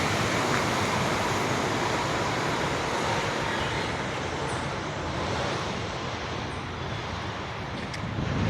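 Steady rushing noise of city road traffic, easing off slightly toward the end.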